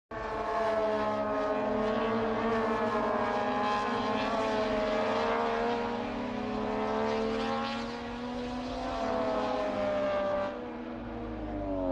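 Racing motorcycle engine running at high revs, its pitch drifting slowly up and down and falling near the end as it comes off the throttle.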